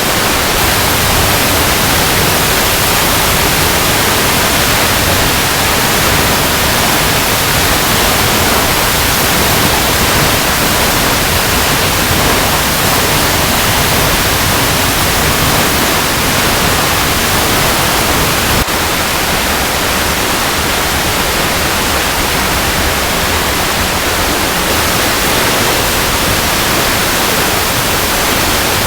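Waterfall cascading over rocks: a loud, steady rush of falling water, an even hiss with no breaks, its level stepping down slightly about two-thirds of the way through.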